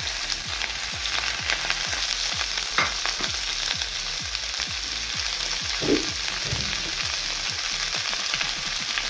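Mixed vegetables and onions frying in hot oil in a pan, a steady sizzle with the knocks and scrapes of stirring.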